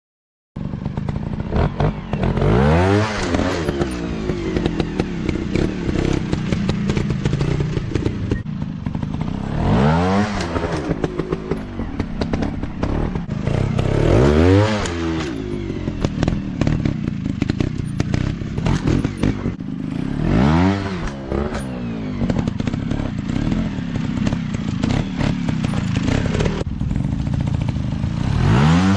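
Dirt bike engines revving hard, the pitch climbing and falling away about five times, with clattering and thumps of the bikes over rough ground.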